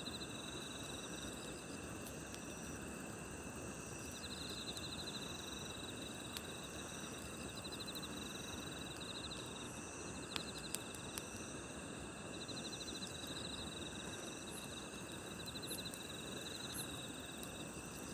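Night grass insects chirping: several steady high-pitched songs, with a pulsed trill that comes and goes every few seconds. Under them the low, even hiss of a campfire, with a few sharp crackles near the middle.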